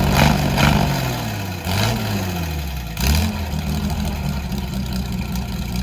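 GAZ-51B inline-six petrol engine running under throttle blips: the revs fall away in the first second, rise briefly twice, about two and three seconds in, then settle into a steady idle.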